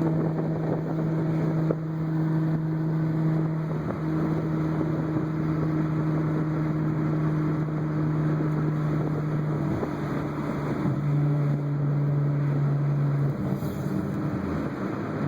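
Straight-piped, turbocharged Audi S4 engine droning steadily at cruise. Its pitch drops slightly about ten seconds in, then rises in quick climbs near the end as it accelerates.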